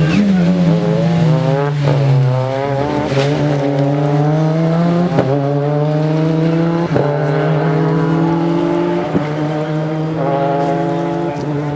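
A World Rally Car's turbocharged four-cylinder engine accelerating hard through the gears. The revs climb steadily, then drop back with a sharp crack at each of about five upshifts.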